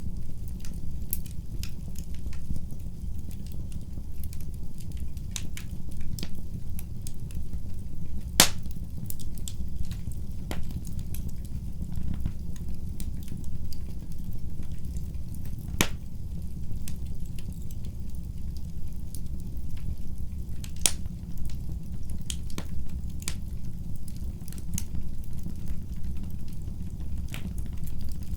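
Wood fire burning in a fireplace: a steady low rumble of the flames with scattered crackles and pops, two sharper pops standing out about a third and halfway through.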